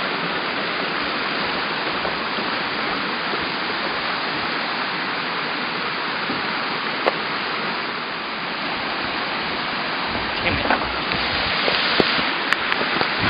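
Steady rush of river rapids and a waterfall, an even roar of water. A single sharp click about seven seconds in, and a few light knocks near the end.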